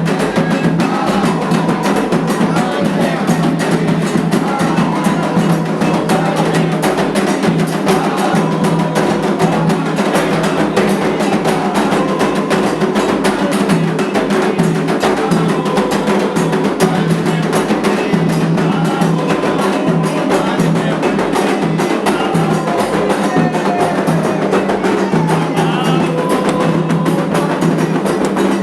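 Candomblé ritual music: atabaque hand drums and an agogô bell playing a dense, steady rhythm, with voices singing over them.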